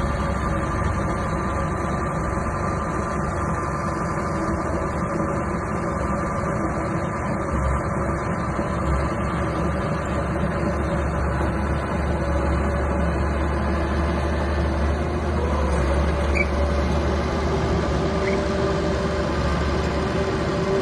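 Small bulldozer's diesel engine running steadily, with a constant low hum.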